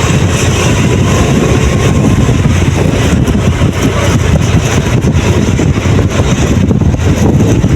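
Vehicle engine running on the move, with wind rumbling loudly on the microphone.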